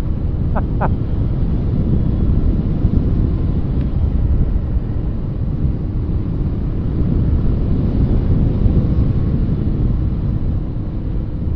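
Motorcycle riding along at steady speed: engine running under a heavy rush of wind on the microphone.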